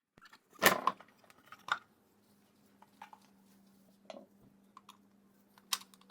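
A few sharp knocks and clatters of hard objects being handled, the loudest about a second in, over a faint steady hum.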